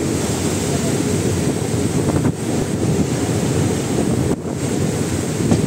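Steady rumble of a moving train heard from its open window, with wind buffeting the microphone.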